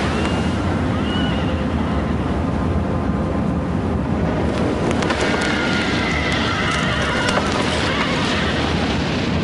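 Horses whinnying over a loud, steady rushing noise, with a spell of clattering about halfway through.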